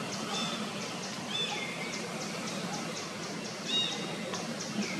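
Small birds chirping outdoors: short high chirps repeating a few times a second, with a few brief whistled calls.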